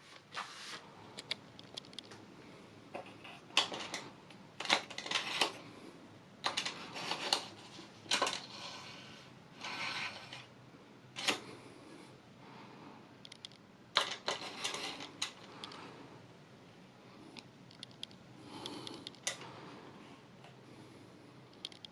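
Irregular clicks, knocks and short rustling scrapes of hard objects being handled.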